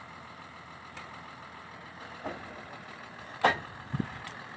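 Steady machinery noise with a few sharp knocks, the loudest about three and a half seconds in, followed by a low thud.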